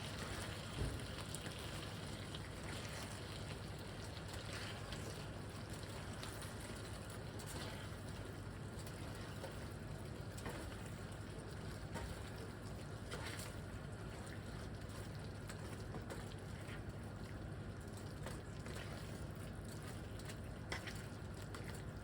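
Food cooking in a pan on the stove: a steady low sizzle with a low hum underneath and a few faint clicks.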